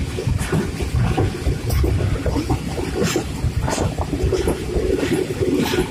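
Passenger train running along the track, heard from inside a carriage: a continuous, uneven rumble of the wheels on the rails with scattered light clicks and rattles.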